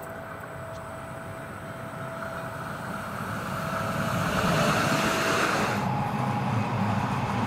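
Stadler ABe 4/12 narrow-gauge electric railcar approaching and passing close by on the rails, growing steadily louder to a rushing peak about four to five seconds in. Near six seconds the hiss drops away abruptly, leaving a steadier, more distant rumble of the running train.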